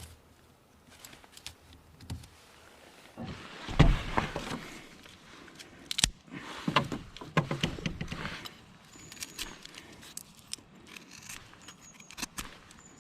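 Light metallic clinks, knocks and rustling of small objects being handled, busiest around four seconds in and again around seven to eight seconds in.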